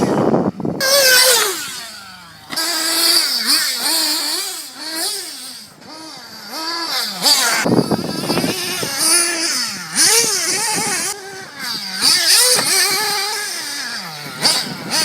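Team C Stoke N 1/8 nitro RC buggy's small two-stroke glow engine revving up and down over and over as the throttle is worked, its pitch rising and falling repeatedly, with one long falling drop in the first couple of seconds and a few sudden jumps.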